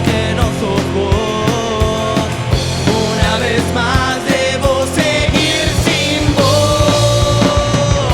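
Rock band playing live: distorted electric guitar lines held over bass and drum kit, with sung or sustained melodic lines bending in pitch.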